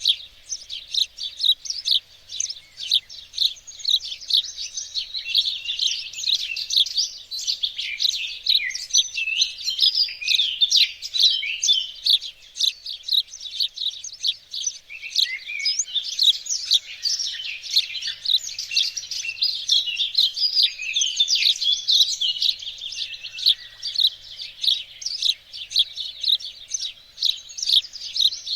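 Many small songbirds chirping and singing at once: a dense, unbroken chorus of quick high chirps and trills.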